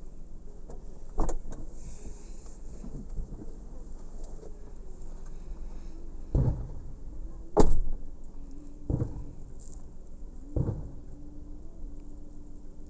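Fireworks bursting: about five separate deep booms at irregular intervals, the loudest about seven and a half seconds in.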